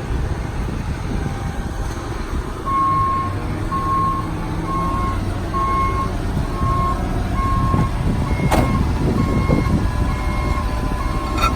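Truck engine idling with an electronic alarm beeping steadily, a little more than once a second, starting a few seconds in. A sharp click or knock comes once midway and again near the end.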